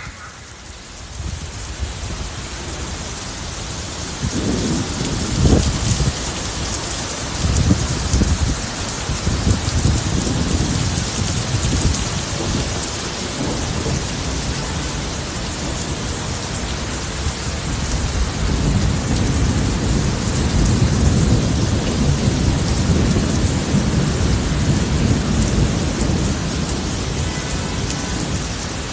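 Heavy rain pouring down in a steady, loud hiss, with deep rumbling swells coming and going over it.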